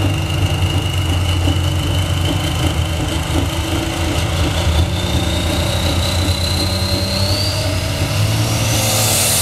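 Pro-stock pulling tractor's engine running loud and steady with a low drone. Over it, a high whine slowly rises in pitch and climbs steeply near the end.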